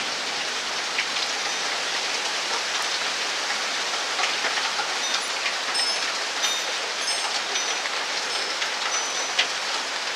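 Steady heavy rain falling, with scattered sharp raindrop hits close by.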